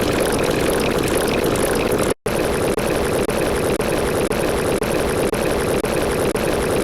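A steady engine-like mechanical drone with a rapid flutter, broken by a brief dropout about two seconds in.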